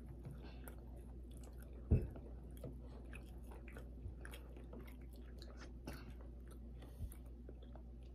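Close-miked chewing and biting of fried pork chops, with many small soft clicks. A single low thump comes about two seconds in and a lighter one near seven seconds.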